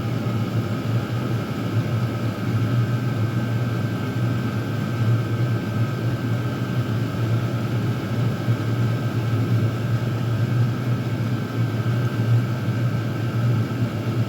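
Several Chinese diesel air heaters running together at maximum output: a steady low hum and rush of combustion and blower noise, with a faint high whine above it.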